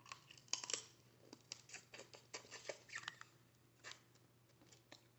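Crab shell being cracked and picked apart by hand: a string of irregular sharp cracks and snaps, loudest about half a second in, with smaller clusters later on.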